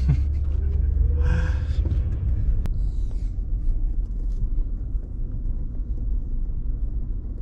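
Low, steady rumble of a car driving, heard from inside the cabin, with an engine note rising in pitch over the first second or so and a single sharp click about three seconds in.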